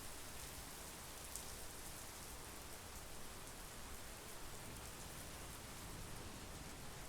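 Steady monsoon rain falling on the ground and trees: an even hiss with faint scattered drop ticks.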